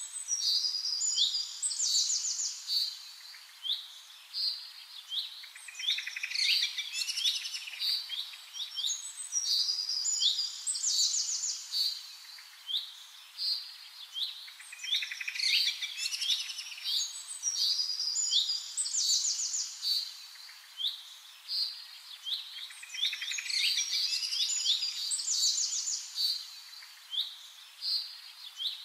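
Birdsong: a continual run of quick, high chirps and trills with only short gaps.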